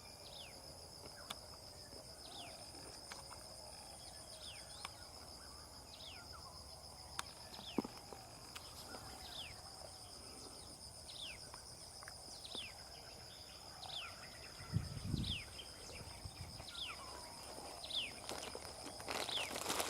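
A small bird repeats a short, sharp call that slides downward, about once a second, over a steady, pulsing insect trill. There is a low thump about three-quarters of the way through, and a rustle just before the end.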